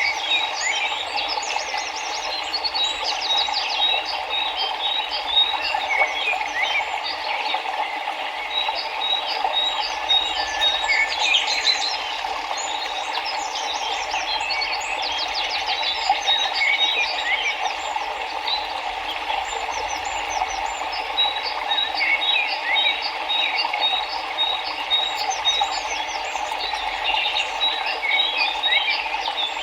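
Steady rush of flowing river water with many small birds chirping and trilling over it, including runs of short repeated high notes.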